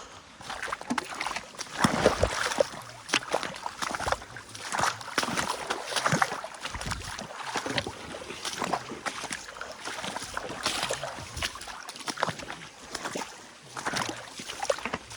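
Irregular splashing and sloshing of stream water, as someone wades and works a fishing net.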